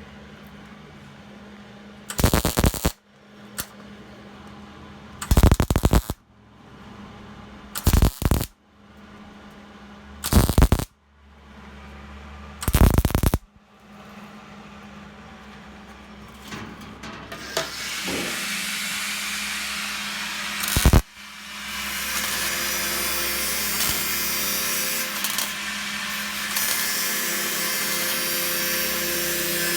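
Welder striking five short weld bursts, each under a second and about two and a half seconds apart, as for tack welds. Later a steady, loud, harsh continuous noise sets in, with one sharp crack just before it.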